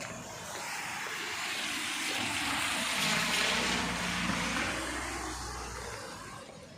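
A car passing by on a wet road: the tyre hiss and a low engine hum rise, peak about halfway through, and fade away near the end.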